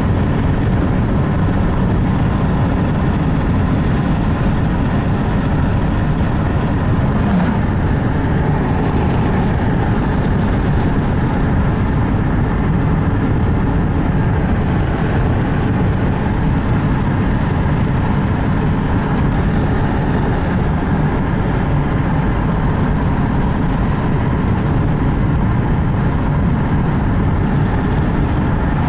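Steady road and engine noise of a moving car, a constant low rumble with no breaks.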